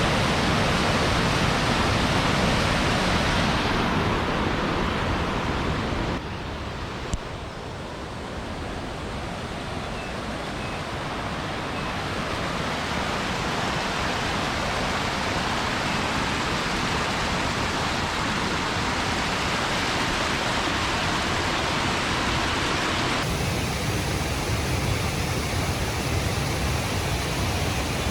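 Steady rush of falling water from a mountain waterfall and its creek. It drops suddenly in level about six seconds in, then builds back, and changes tone again near the end.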